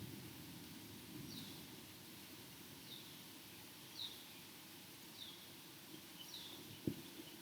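A bird repeats a short, high, falling chirp about once a second over a faint steady hiss of the storm. A low rumble of thunder dies away at the start, and there is a single sharp click near the end.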